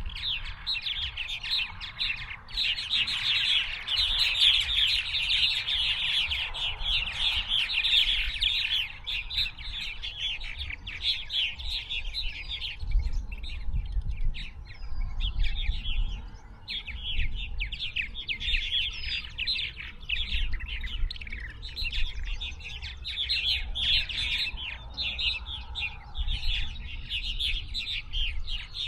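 Many songbirds chirping and trilling at once in a dense, continuous chorus, with a short lull about twelve seconds in and another near the middle. A low rumble runs underneath.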